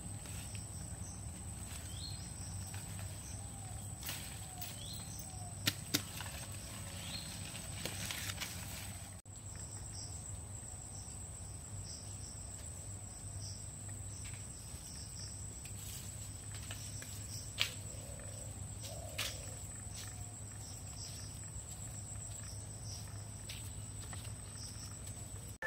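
Insects trilling steadily on one high note, with a few sharp clicks: two about 6 seconds in, and two more around 17 and 19 seconds.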